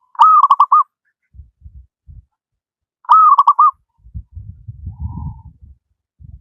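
Zebra dove (perkutut) calling twice, about three seconds apart. Each call is a short rising coo that runs into a quick string of four or five clipped notes. Soft low thumps are heard between and after the calls.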